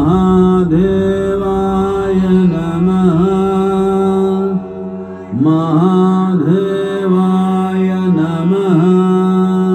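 Sung devotional chant: a voice holding long notes with ornamented turns, in two phrases with a short break about halfway through.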